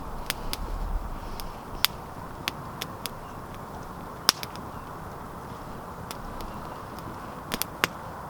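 Wood campfire crackling: irregular sharp pops and snaps over a steady hiss. The loudest pops come about two seconds in, about halfway through, and as a quick pair near the end.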